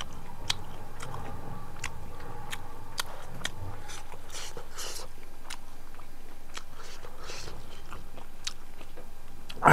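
Close-miked chewing of chicken biryani: scattered wet mouth clicks and smacks with soft rustling of fingers mixing the rice. A brief falling voice-like sound comes right at the end.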